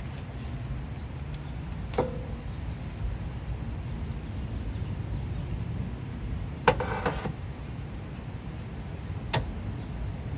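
A few sharp knocks over a steady low rumble, as the bent fender support bracket of a wrecked 1993 Honda Legend is pushed outward by hand from behind the fender. There is one knock about two seconds in, a quick rattle of knocks around two-thirds through, which is the loudest, and one more near the end.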